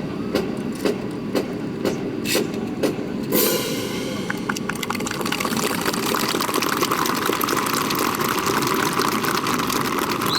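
Drill-team rifle drill: sharp clicks and knocks of rifles handled in unison for about three seconds, then a steady rushing noise takes over for the rest.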